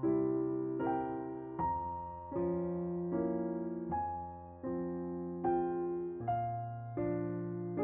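Background music: slow, soft piano chords, a new chord struck about every three-quarters of a second and each one fading away.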